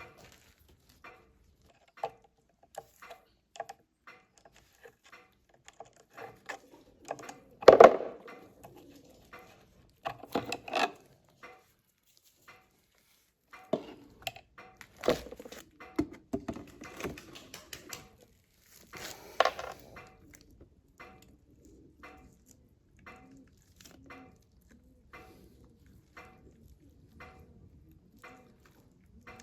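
Metal parts and hand tools clinking and knocking during work on a hydraulic pump, with several louder clanks, the loudest about eight seconds in.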